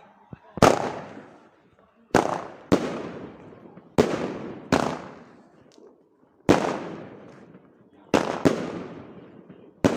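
Fireworks going off: nine sharp bangs at uneven gaps, each fading away over about a second, from a lit multi-shot firework that keeps firing.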